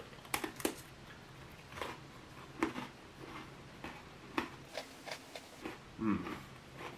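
Crunching and chewing of a dry milk biscuit topped with chocolate syrup: scattered, crisp crunches at irregular intervals.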